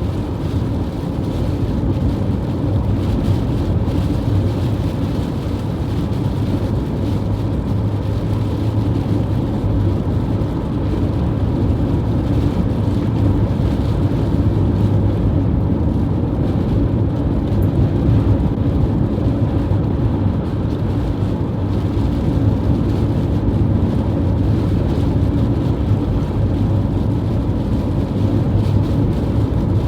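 High wind blowing, a steady low rumble with gusts swelling and easing over the microphone.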